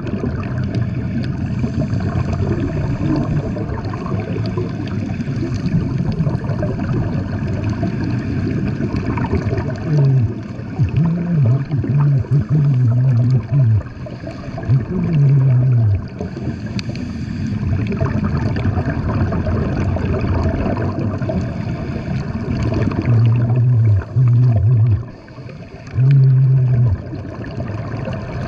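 Underwater sound of scuba diving: a steady gurgling rush of water and bubbles, with a low droning tone that comes and goes twice, around the middle and again near the end.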